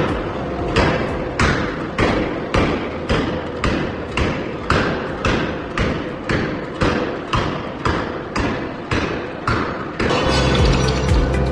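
A forging hammer striking metal in an even rhythm, about two heavy blows a second, each with a short ring. The blows stop near the end, when a steady low hum takes over.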